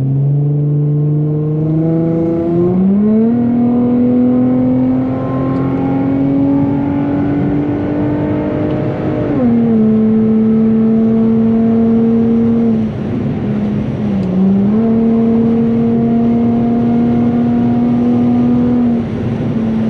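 Infiniti G35's V6 running loud through a muffler-delete exhaust with a Vibrant resonator, heard from inside the cabin under way. The engine note rises steadily under acceleration for the first three seconds, then holds. It drops sharply about halfway through, dips briefly and comes back, and falls again near the end.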